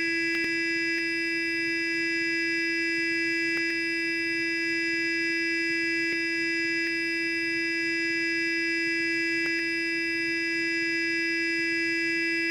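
Sonic electric toothbrush running continuously: a steady, even, high buzz with a few faint ticks scattered through it.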